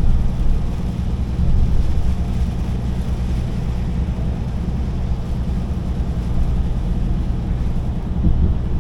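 Heavy truck on the move: a steady low engine drone with road and wind noise.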